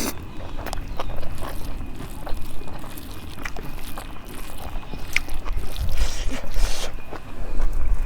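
Eating sounds: close-up chewing, with soft wet clicks and smacks of a meal of rice and fish curry, over a low rumble of wind on the microphone.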